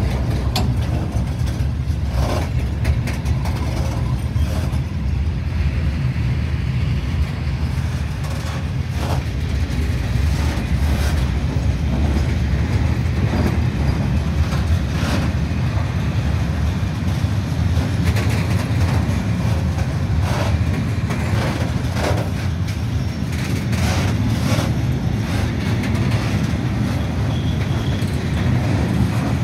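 Freight train of open-top Eaos coal wagons rolling past at close range: a steady low rumble of steel wheels on the rails, with irregular clacks and knocks throughout.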